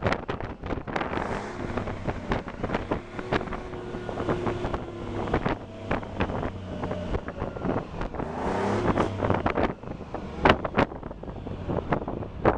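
Seagrave fire engine's Detroit Diesel 6V53 engine running, its pitch rising briefly about two-thirds of the way in. Heavy wind buffets the microphone throughout, with sharp knocks, the loudest about ten seconds in.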